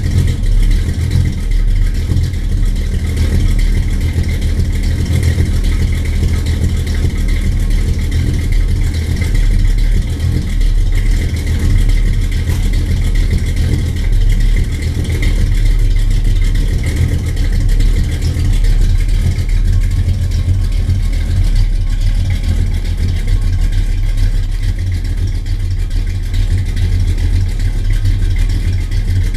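Car engine running steadily with a deep, even drone and no revving.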